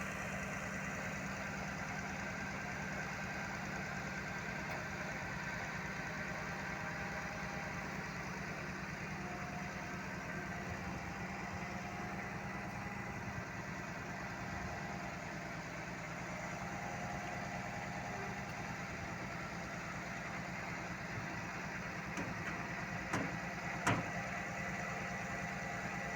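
Heavy diesel engine idling steadily, with two short sharp knocks near the end.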